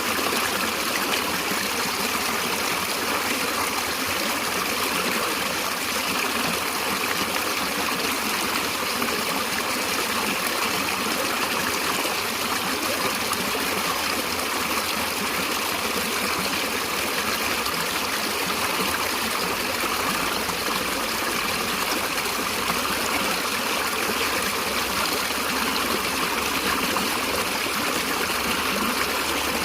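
Stream water flowing and trickling steadily over stones, an even rushing sound with no breaks.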